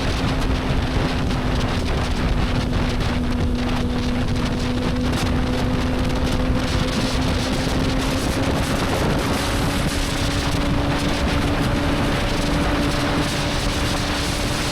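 Motorcycle engine pulling steadily at cruising speed, its note rising slowly and evenly, with wind rushing over the microphone.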